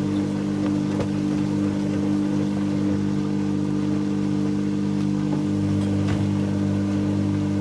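Dyson Contrarotator CR01 washing machine running, its twin-drum motor giving a steady hum with a few faint knocks.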